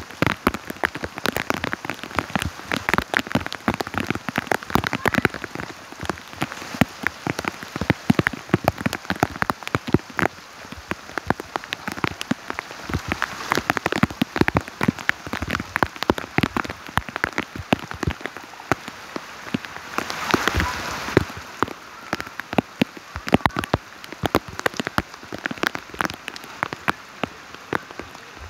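Steady rain, with many individual heavy drops striking a surface close by, and a brief louder rush of rain about two-thirds of the way through.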